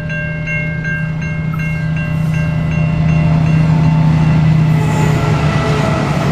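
Level-crossing warning bell ringing, about three dings a second, while a diesel freight locomotive approaches and passes the crossing. The locomotive's engine is a steady low drone that grows louder as it draws level, and after about three seconds it drowns out the bell.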